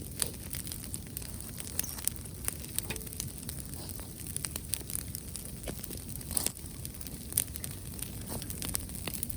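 Wood bonfire crackling, with irregular sharp pops and snaps from the burning wood over a low steady rumble.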